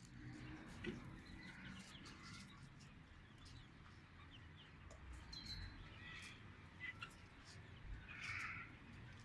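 Faint, scattered peeps and clucks of young chickens.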